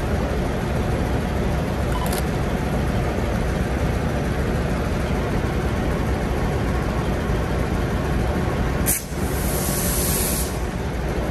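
Diesel railcar running, a steady rumble, with a sharp click about two seconds in and another about nine seconds in followed by a short high hiss.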